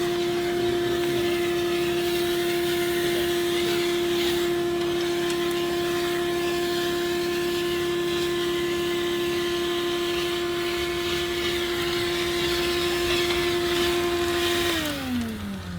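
A high-speed electric motor running at a steady pitch with a hissing rush of air, then switched off near the end, its pitch falling as it winds down.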